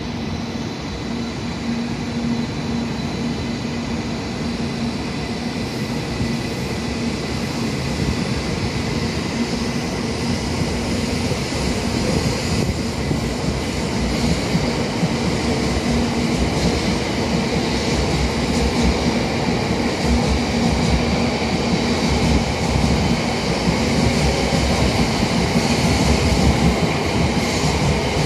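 700 series Shinkansen electric train pulling out of the station and accelerating: a steady hum with a few higher tones over a rushing rolling noise of wheels on rail that slowly grows louder.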